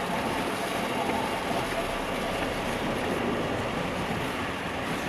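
Steady rushing rumble of a car driving through floodwater, heard from inside the cabin: tyre, water and engine noise with no separate events.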